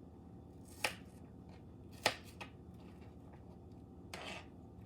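Knife knocking on a cutting board while cutting onion: a few sharp, separate knocks, strongest about a second in and again about two seconds in, then a soft rustle near the end.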